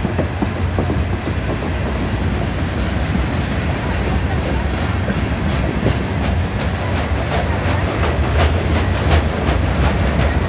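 CSX manifest freight train's hopper cars rolling past close by: a steady rumble with the wheels clacking over the rail joints, the clacks coming more often from about halfway through.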